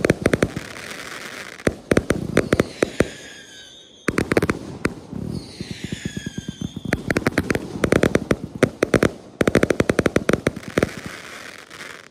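Consumer firework cakes firing in rapid volleys: quick series of launch thumps and bursts with crackle, and falling whistling tones twice. The barrage stops and restarts abruptly about four seconds in and again after nine seconds.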